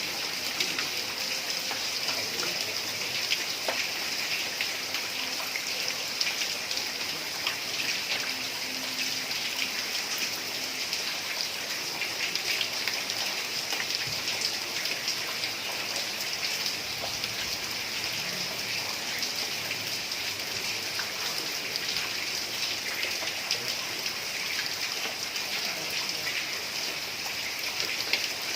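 Heavy rain falling steadily on roof tiles: a dense, even hiss of countless drops.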